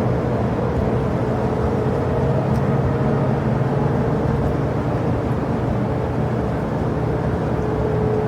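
Jet airliner engines running steadily: a constant rumble with a held hum tone, no rise or fall in level.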